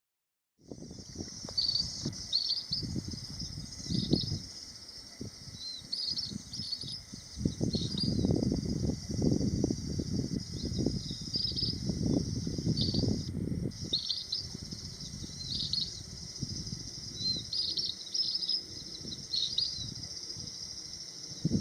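Ashy minivets giving short, high calls every second or so over a steady high insect drone, with an uneven low rumble underneath.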